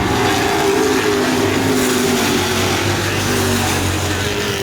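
Race trucks' engines running at speed around a short oval, several engine notes overlapping.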